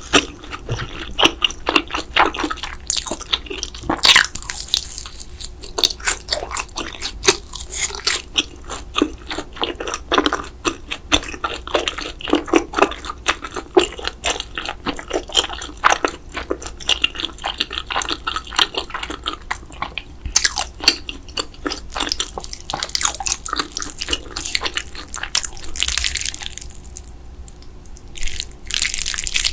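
Close-miked eating sounds from cheese noodles and breaded mozzarella sticks: wet chewing, smacking and crunchy bites in a dense run of clicks.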